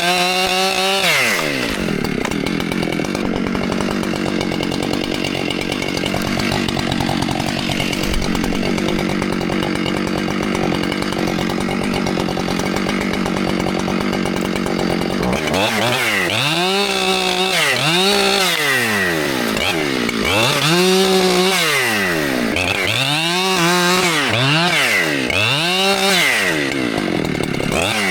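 Chainsaw cutting into a tree trunk, its engine held steady under load while the bar is in the wood. About halfway through it revs up and drops back several times, rising and falling roughly every two seconds.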